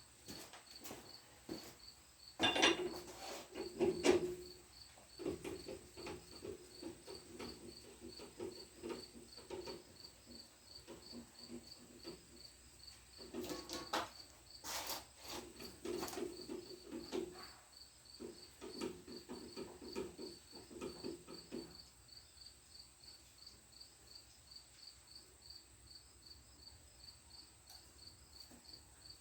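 A cricket chirping in a steady, even rhythm, with metal clinks and knocks and stretches of sliding, scraping sounds as a measuring tool zeroed on one corner is moved across the machined metal of the planer. The loudest knocks come about two to four seconds in and again around fifteen seconds.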